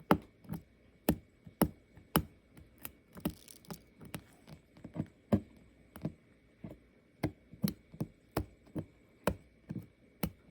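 Resin diamond-painting drills being picked off the canvas with a sharp tool and dropping into a tray below: a run of small, sharp clicks, about two a second and unevenly spaced.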